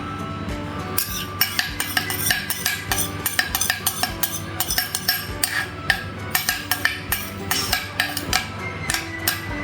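A kitchen utensil knocking and clinking against a dish in quick, irregular strokes from about a second in, over background music.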